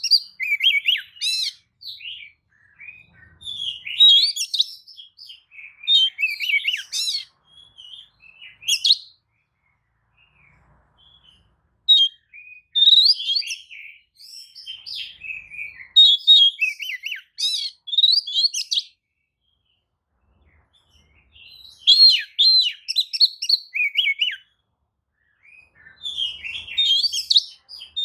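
Oriental magpie-robin singing: rapid bursts of varied clear whistles and scratchy chattering notes, broken by a couple of pauses of about two seconds. It is the excited, tail-fanning song used as a lure to make other magpie-robins answer.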